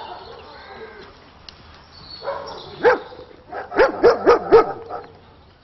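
Dogs barking: a few scattered barks about halfway through, then a quick run of four barks near the end.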